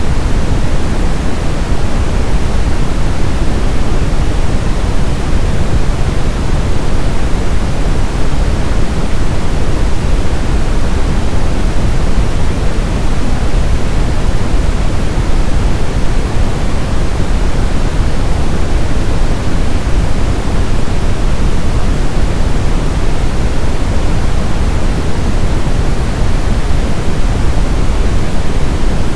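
Steady brown noise, a loud, even hiss-like rumble weighted heavily toward the low end, with no changes or events.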